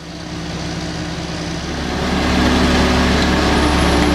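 A heavy vehicle's engine running and growing louder over the first two seconds, then holding steady, with a rushing noise over a low hum.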